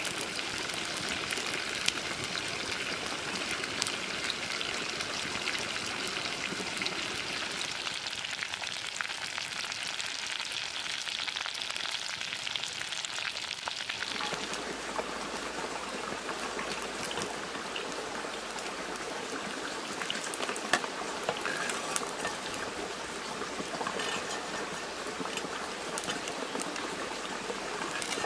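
Small frogs frying in hot oil in a clay pot over a wood fire: a steady sizzling hiss. About halfway through, the sizzle becomes fuller and lower.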